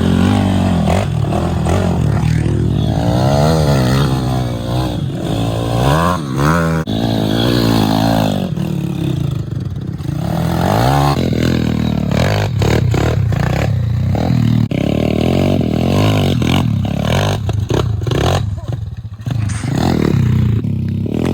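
Small single-cylinder pit bike engine being ridden, its pitch rising and falling repeatedly as the throttle is worked, with a couple of abrupt breaks in the sound.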